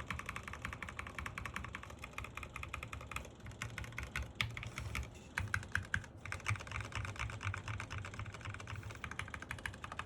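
Fast typing on a Sky87 mechanical keyboard with Gateron Pro Milky Yellow switches: a rapid, continuous run of keystrokes, with short pauses about five and six seconds in.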